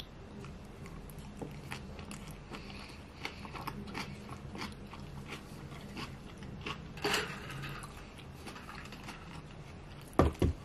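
Close-miked chewing of a big mouthful of sushi roll topped with pickled ginger, with small wet mouth clicks and crunches throughout and a louder run of them partway through. Near the end come two dull knocks.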